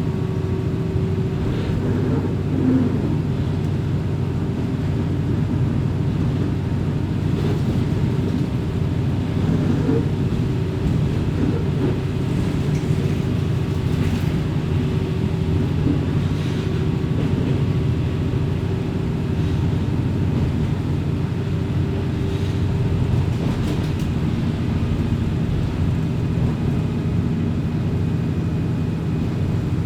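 Diesel railcar heard from inside the car: the engine runs steadily with a low hum, under the rumble of the wheels on the rails, with a few faint ticks.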